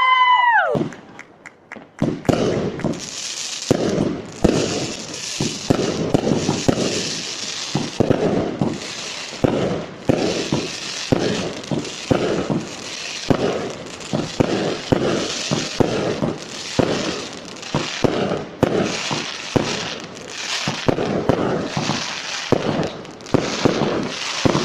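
Fireworks display: a whistling tone dies away, dropping in pitch, in the first second. After a brief lull, from about two seconds in, comes a dense, rapid barrage of bangs and crackling, several a second without a break.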